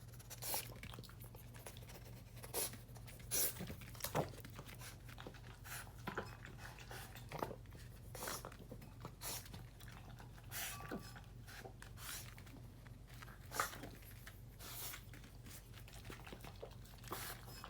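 French bulldog puppy eating from its bowl: irregular crunching and chewing with sharp clicks, uneven and spread through the whole stretch.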